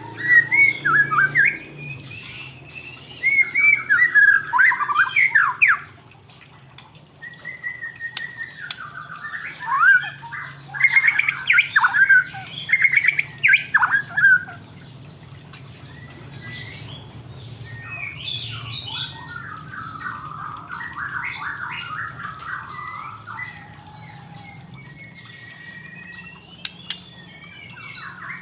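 Male white-rumped shama (murai batu) singing: loud bursts of varied whistled and chattering phrases, then softer, rapid twittering later on, with a single whistled note near the end.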